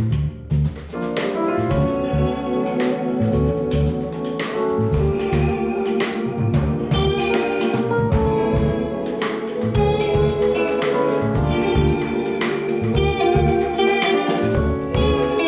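A jazz band playing live: piano, saxophone, electric guitar, bass and drum kit, with a driving rhythm of bass and kick drum under sustained melody notes.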